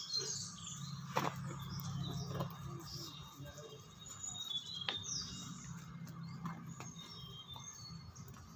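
Small birds chirping in short high calls over a low steady hum, with a couple of sharp clicks about a second and five seconds in.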